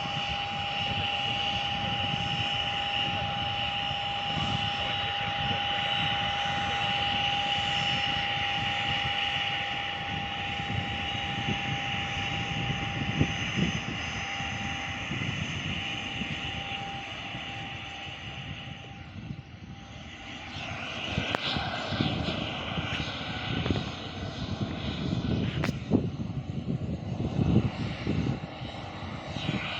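Airliner engines running with a steady high whine over a rumble. About two-thirds of the way through, the whine fades and a choppier, gusty rumble takes over.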